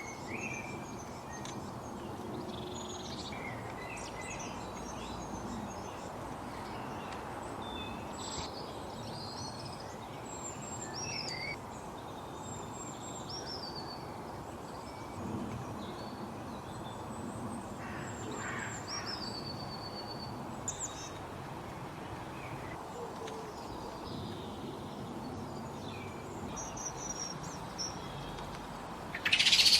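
Small birds chirping and whistling in short, scattered calls, some of them falling in pitch, over a steady background hiss. Near the end comes one much louder call.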